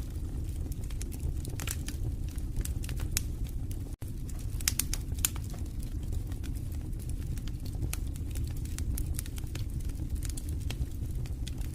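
Wood fire burning in a fireplace: a steady low rumble of flames with irregular crackles and pops, and a brief dropout about four seconds in.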